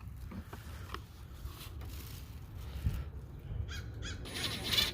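Pet parrot squawking, a run of loud calls starting a little over three and a half seconds in, over a faint low hum.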